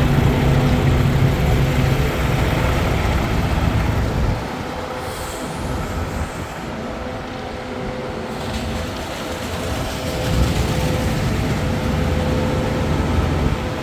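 A machine engine running steadily with a low hum. It drops in level about four seconds in and builds up again near the end.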